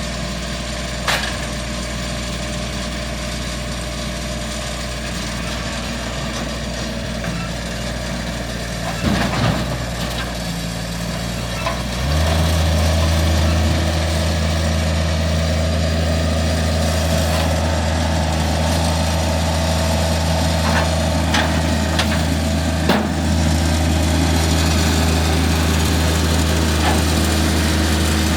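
Engine idling steadily, then running faster and louder from about twelve seconds in and holding there, with a few short knocks.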